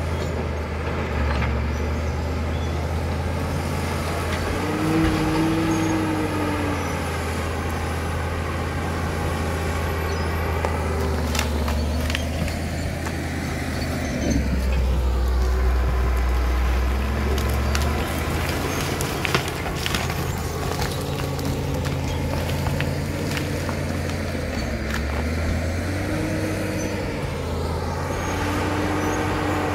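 Caterpillar D7 bulldozer's diesel engine running steadily. Its pitch and load shift several times, dropping lower and louder about halfway through. A few sharp knocks come in the middle.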